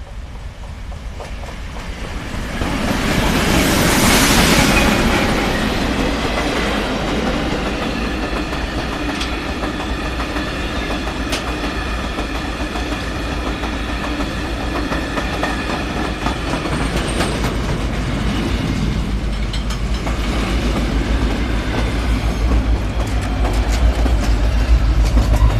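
Engineering works train of flat wagons loaded with concrete sleepers passing close by, its wheels rolling and clicking over the rails. The noise swells to its loudest about three to five seconds in as the head of the train goes by. It then holds steady through the wagons and grows louder again near the end as a yellow track machine and a diesel locomotive pass.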